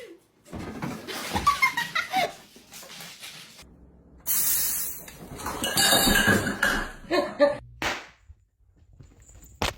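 People laughing, with a loud burst of hissing noise about four seconds in.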